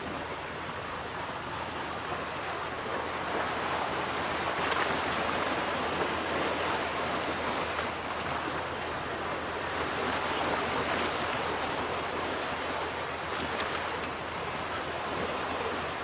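Ocean waves washing onto a beach, a continuous surf wash that swells and eases in gentle surges every few seconds.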